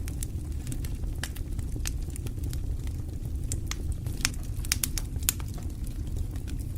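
Wood fire burning in a fireplace: a steady low rumble of the flames with irregular sharp crackles and pops of burning logs, a few louder pops in the second half.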